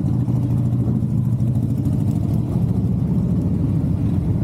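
Motorcycle engine running steadily at low revs, a dense low drone with rapid firing pulses and no rise or fall in pitch.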